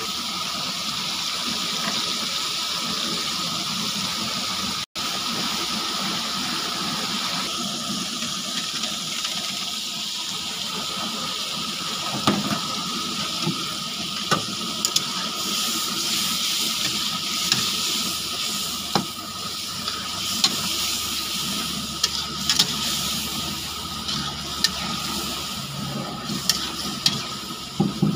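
Chicken and tomato masala sizzling in a hot karahi, a steady hiss. From a little before halfway on, a metal spatula clicks and scrapes against the pan as the gravy is stirred.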